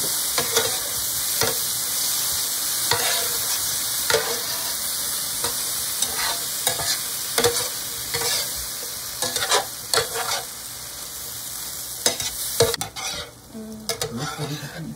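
Shrimp and broccoli sizzling in sauce in a Presto electric skillet, stirred with a spatula that scrapes and knocks against the pan about once a second. The sizzle weakens steadily and falls away near the end.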